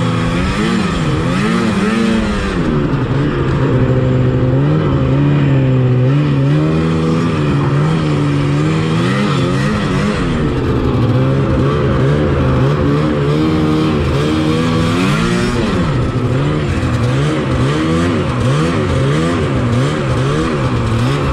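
1986 Yamaha Phazer 480 snowmobile's two-stroke engine running under way, heard from on board. Its pitch rises and falls again and again as the throttle is opened and eased off.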